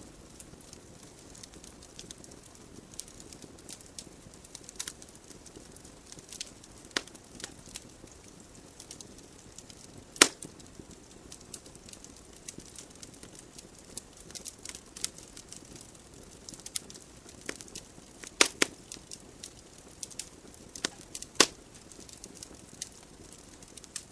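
Wood logs burning in a fireplace: a low steady hiss of flame with irregular sharp crackles and pops, the loudest about ten seconds in and twice more near the end.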